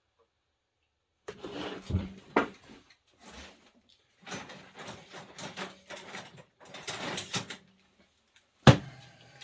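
Hand tools and chainsaw parts being handled on a workbench: a run of irregular knocks, scrapes and rattles, then after a short pause one sharp knock near the end.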